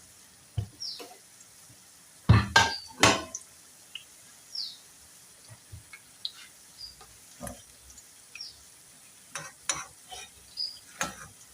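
A cooking utensil stirring and turning food in a frying pan, with scattered knocks and scrapes against the pan and a few louder knocks about two to three seconds in.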